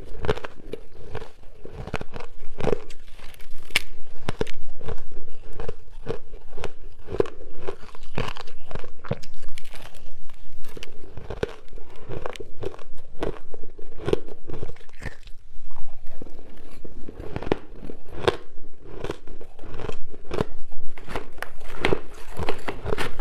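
Close-up crunching of soft, chunky freezer-frost ice being bitten and chewed: a dense run of crisp, irregular crunches and crackles, with brief pauses between bites.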